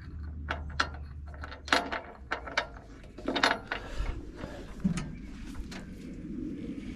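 Metal clanks and clicks from the steel locking pin and carriage of a portable band sawmill being handled, a few of them ringing briefly, over a low steady hum.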